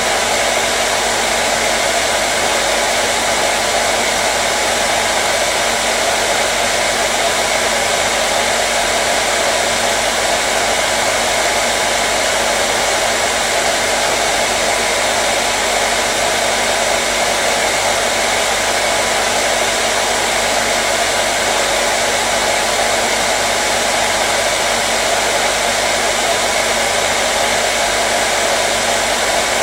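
Hair dryer running steadily at one speed: an even rushing blow of air over the motor's steady hum, with no change in pitch or level.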